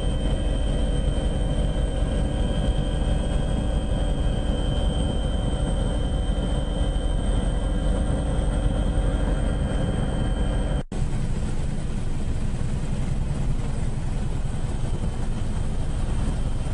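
Steady engine noise of an aircraft in flight: a constant drone with high whining tones over it. It breaks off at a cut just before eleven seconds and carries on with a slightly different tone.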